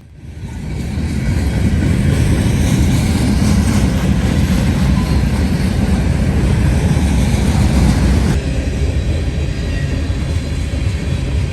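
Freight train rolling past, a loud steady rumble of wheels on rail building up over the first second or two. The higher hiss thins abruptly about eight seconds in.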